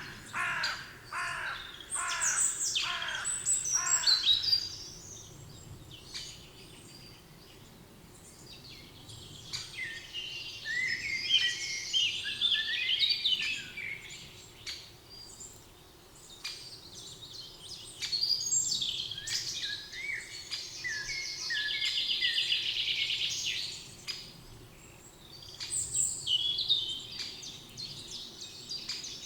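Forest birds singing: a run of repeated falling calls, about two a second, for the first four seconds, then bursts of warbling, trilling song from small songbirds, with quieter pauses between.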